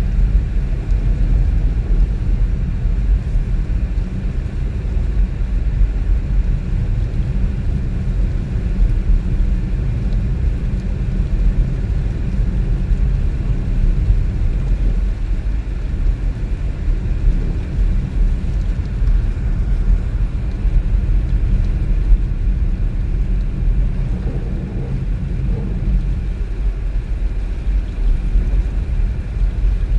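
Steady low rumble of a car driving: engine and tyre-on-road noise.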